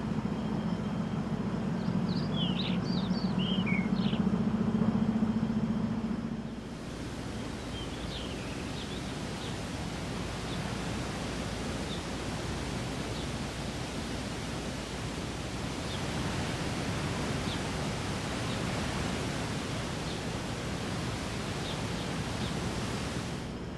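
Outdoor ambience. For the first six seconds or so a steady low drone, like a distant engine, runs under a few short bird chirps. It then changes abruptly to a steady hiss with occasional faint chirps.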